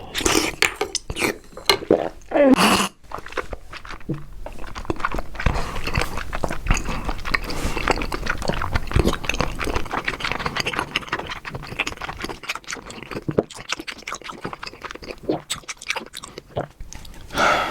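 Close-miked chewing of soft, chewy jelly-like food, a dense run of wet mouth clicks and smacks.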